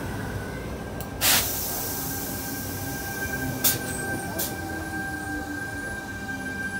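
Sydney Trains electric suburban train moving slowly alongside the platform, with a steady high whine. There is a short loud hiss of air a little over a second in, and two sharp clacks around the middle.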